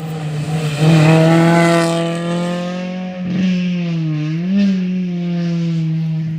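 Rally car engine running at steady high revs, louder from about a second in, with a brief dip and rise in pitch around four seconds in.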